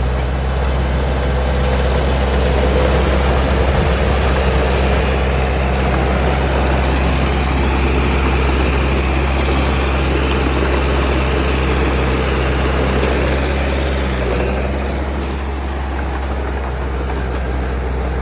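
Komatsu D31P bulldozer's diesel engine running steadily, a constant low drone with mechanical noise over it; it eases slightly about fourteen seconds in.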